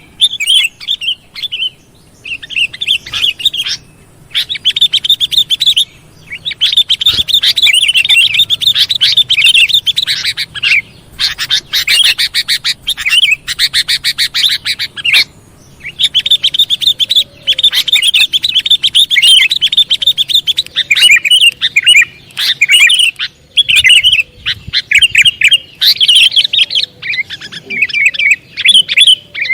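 Sooty-headed bulbul (kutilang) calling loudly in rapid, chattering phrases of a few seconds each, broken by short pauses.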